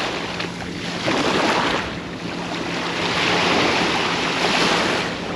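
Ocean surf breaking and washing up the beach, swelling twice.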